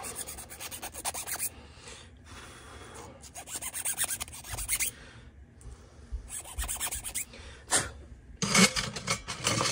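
Hand file rasping in runs of quick strokes, with short pauses between the runs.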